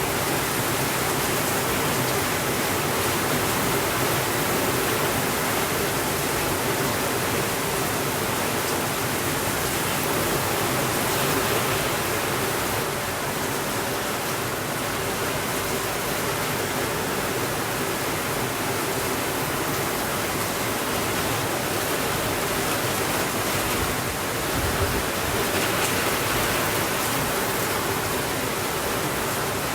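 Steady rainfall, an even, dense hiss with no let-up. A single soft low bump comes late on.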